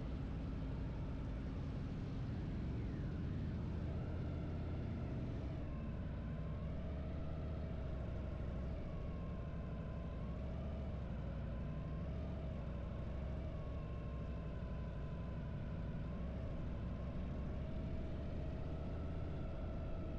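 Harley-Davidson air-cooled V-twin motorcycle engine running while riding, its pitch rising and falling gently with the throttle.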